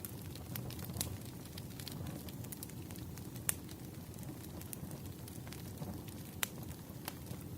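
Wood fire burning, with a low steady rumble and irregular sharp crackles and pops from the logs, the two loudest about three and a half and six and a half seconds in.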